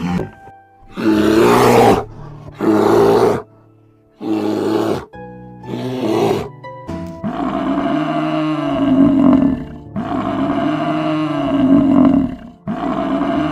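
Large wild animals roaring in a run of short, loud calls of about a second each, then a longer stretch of repeated calls that rise and fall about every second and a half.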